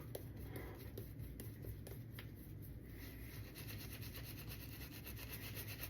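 Shaving brush being worked through thick, pasty shaving soap, a faint steady rubbing and swishing of the bristles as the overloaded knot is loosened into lather.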